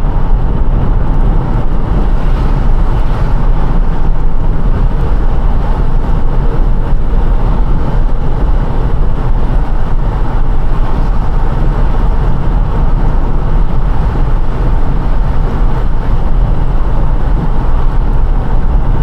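Car driving on a rain-wet road: a steady, even low rumble of tyres and engine with a hiss of water.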